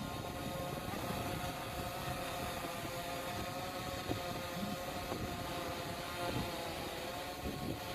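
DJI Mavic 2 Zoom quadcopter drone in flight: its propellers give a steady whine of several stacked tones that waver slightly in pitch, over a low rumble.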